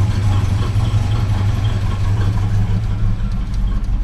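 Buick 231 (3.8-litre) V6 in a 1978 Datsun King Cab idling steadily at about 800 rpm, a low, even drone.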